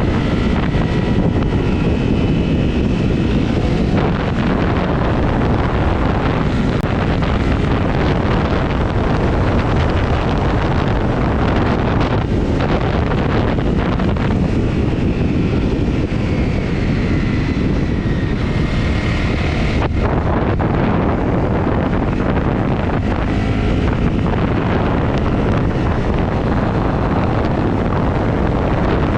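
Honda CRF250 single-cylinder motorcycle engine running while riding, under heavy wind buffeting on the microphone.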